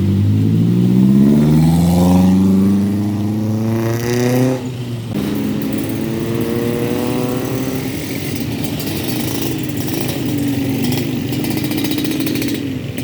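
A road vehicle's engine accelerating, its pitch rising. It breaks off briefly about four and a half seconds in, as at a gear change, rises again, then runs steadier.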